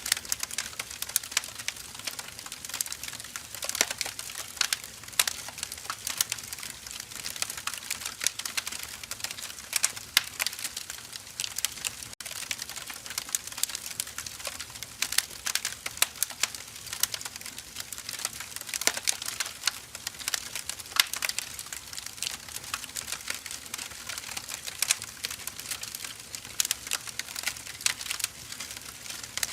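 Wood fire burning: firewood logs crackling and popping in quick, irregular snaps over a soft hiss of flame.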